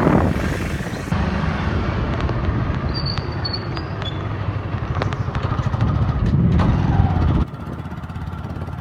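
Road vehicle noise heard while riding: a steady low rumble, with a short high squeak about three seconds in. The rumble drops suddenly near the end.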